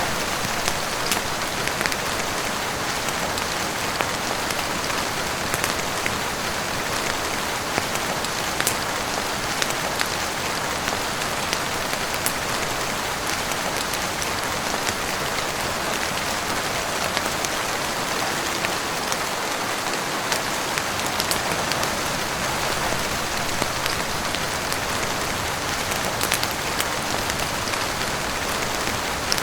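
Steady heavy rain on a roof and windows, an even hiss with many scattered sharp ticks and pops throughout.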